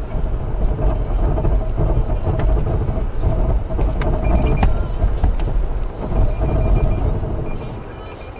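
A car driving, with a loud, steady low rumble of road and engine noise and a few knocks around the middle. A high, short beep repeats in the second half, and the rumble fades near the end.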